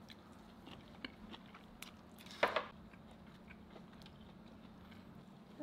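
A person quietly chewing a bite of grilled pork belly, with a few light clicks and one louder crunch about two and a half seconds in, over a faint steady low hum.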